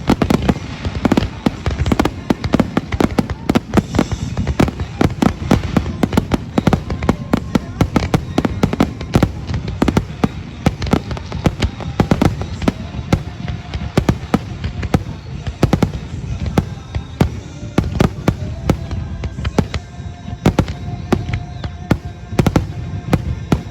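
Fireworks going off in quick succession: a dense run of sharp bangs and pops, several a second, over a constant low rumble.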